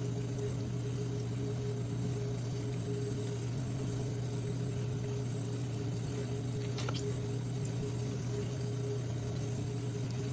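Steady low hum with a faint high whine, unchanging throughout, and one faint tick about seven seconds in.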